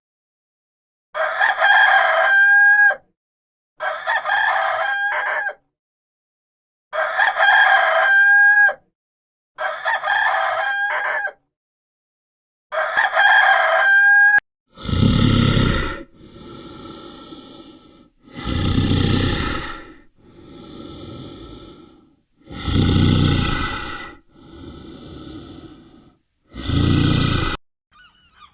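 A rooster crowing five times, each crow ending in a rising note, with short silences between them. Then comes a different, deeper animal call, repeated loud calls alternating with quieter ones, about four of each.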